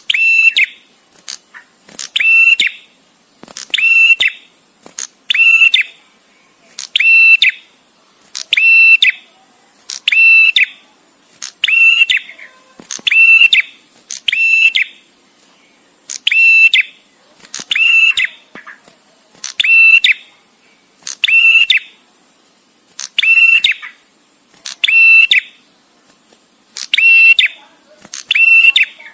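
Male prenjak tamu (bar-winged prinia) calling: a loud, shrill, buzzy call of about half a second, repeated steadily about once every second and a half.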